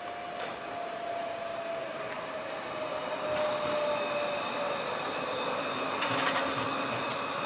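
CAF Urbos 3 tram running on its rails, with the electric traction whine slowly falling in pitch as it slows. The rolling noise grows louder over the first few seconds, and a few sharp clicks come about six seconds in.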